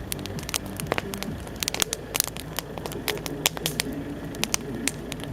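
Bonfire crackling: burning wood giving irregular sharp pops and snaps, several a second, over a steady low rumble.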